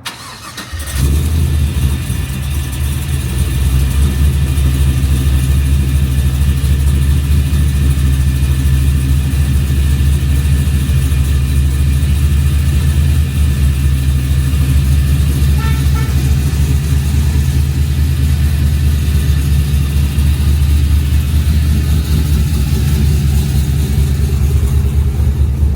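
Pickup truck engine coming on about a second in and then running steadily with a loud, low drone.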